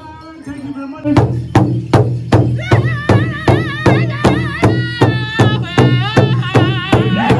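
Powwow drum group: a high lead voice opens, then the big drum comes in with steady, even beats about two and a half a second, and several high-pitched singers join about halfway through.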